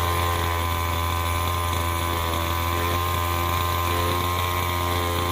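A small motor running steadily at a constant speed, with a low hum and an even pitch that does not change.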